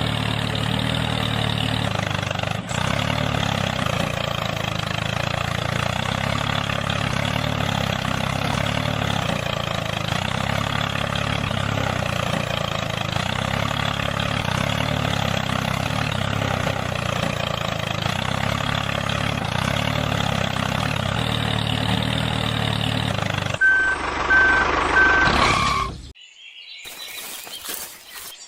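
A motor running steadily with an even pitch. Near the end come three short high beeps, then the sound cuts off to almost nothing.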